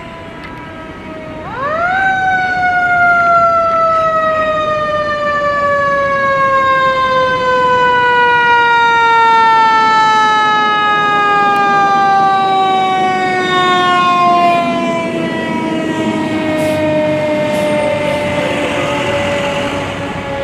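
Fire engine siren winding up sharply about a second and a half in, then sliding slowly and steadily down in pitch as it winds down.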